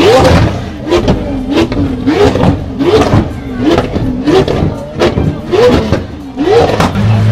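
Lamborghini Aventador's 6.5-litre V12 being revved in quick throttle blips, about ten in a row, each a short rising rev with a sharp crack.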